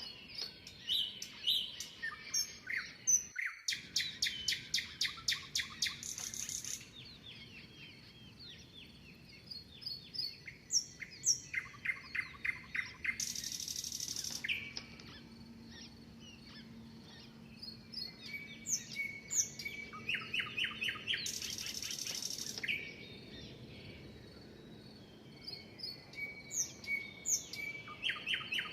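Songbirds singing. One bird repeats a song about every eight seconds, a fast run of repeated notes ending in a short buzz, while other birds give scattered short chirps and whistles in between.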